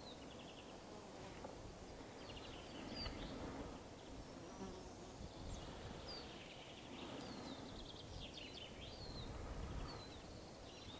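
Faint outdoor ambience of a pine forest: thin, high chirps and short trills come every second or two, with an insect buzzing.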